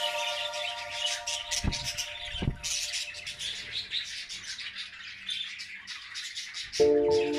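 Budgerigars chattering, with quick high chirps and squawks from the flock. Held music chords fade in the first two seconds, and music comes back in shortly before the end.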